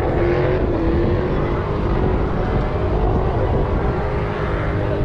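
Car V8 engine held at high revs, its pitch easing down slightly and then holding steady.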